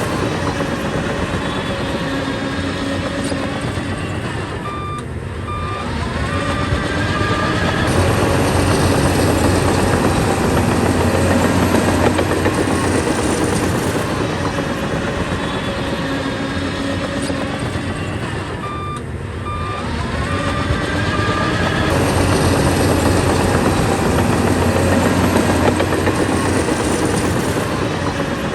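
Crawler bulldozer's diesel engine and steel tracks working under heavy load. The engine swells and eases twice as it pushes and backs off, and each time it eases a short run of high beeps sounds.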